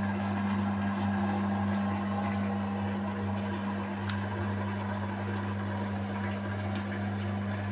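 Beko WMY81283LMB2 washing machine spinning a load of curtains, its motor and drum giving a steady, even hum, with a faint click about four seconds in.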